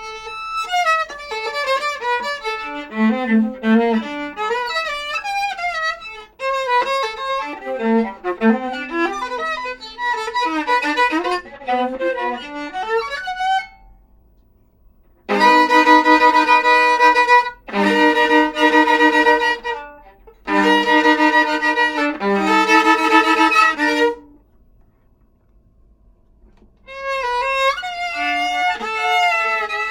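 Solo viola playing: quick melodic runs, then four long held bowed notes in a row, a short pause, and running passages again near the end.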